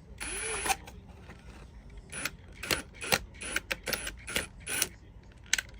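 Cordless drill run in a short half-second burst, its motor pitch rising and falling, then worked in a string of short trigger pulses mixed with sharp clicks, as when driving small screws into a fixture.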